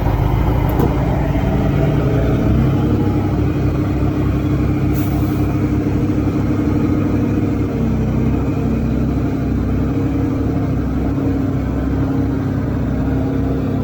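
Large diesel engine of earthmoving machinery running steadily under a load, with a deep, even pulsing throb.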